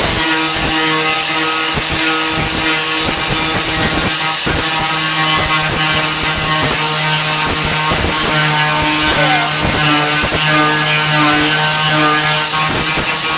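4.5-inch angle grinder running at speed with a steady whine, its wheel scraping in repeated passes against the sheet metal of a pickup bed's wheel arch, grinding off the old body filler to find the rust beneath.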